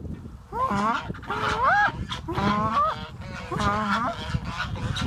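Domestic ducks calling to the person: a run of about four drawn-out calls, each bending and rising in pitch.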